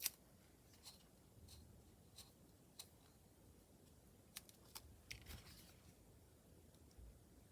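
Faint, scattered small clicks and taps of hands working with craft materials, with a sharper click right at the start.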